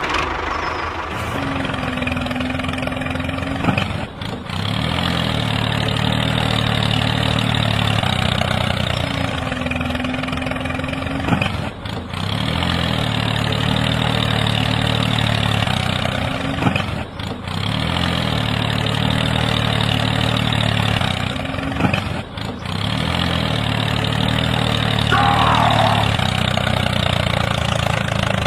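Tractor engine running steadily at a low idle-like pace, with short dips every five seconds or so.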